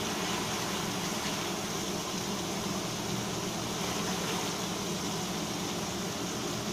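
Onion-and-spice masala paste sizzling steadily as it fries in oil in a steel kadai.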